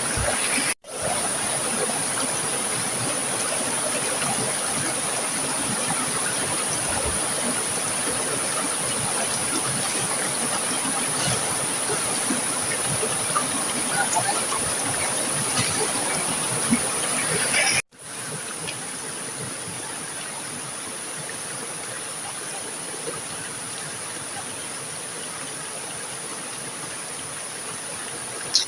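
River water rushing steadily, with a steady high-pitched whine above it. The sound cuts out abruptly twice, about a second in and just past halfway, and the later part is a little quieter.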